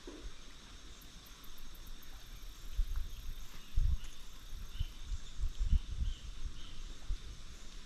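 Steady insect chorus of crickets trilling on several high pitches, with a run of low thuds and rumbles on the microphone from about three to six seconds in.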